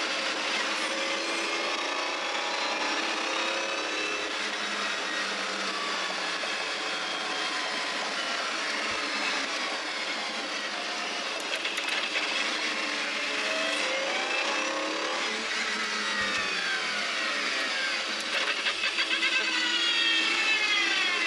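Mercedes CLK GTR Roadster's 6.9-litre V12, heard from inside the open cabin while driving, its pitch rising and falling with acceleration and gear changes. The revs climb about halfway through and again, louder, near the end.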